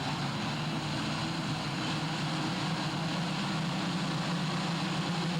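A pack of 250cc two-stroke motocross bikes running together: a steady, blended engine drone that builds slightly toward the end.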